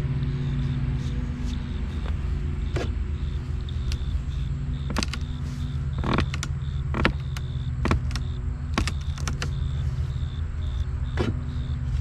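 Chainsaw engine idling steadily, with scattered sharp clicks and knocks over it.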